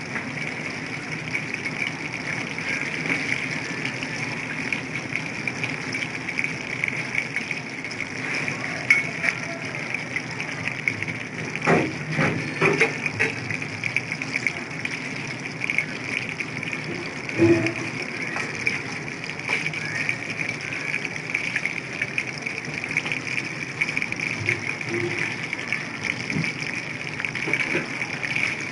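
Chicken lollipops deep-frying in hot oil, a steady sizzle. A few short knocks stand out around the middle.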